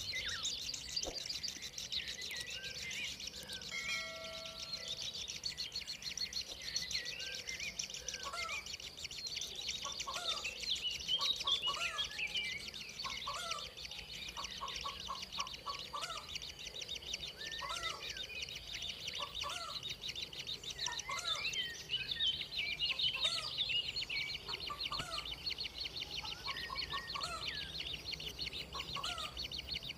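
Birds chirping and calling: a constant high chatter of many chirps, with short calls repeated in quick runs of several notes over it.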